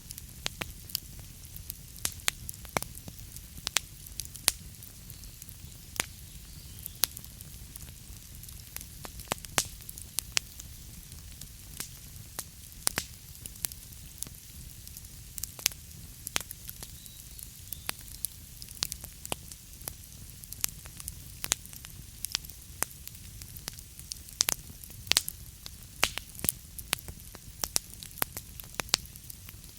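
Wood fire crackling in a fireplace: irregular sharp pops and snaps, sometimes several a second, over a low steady rumble.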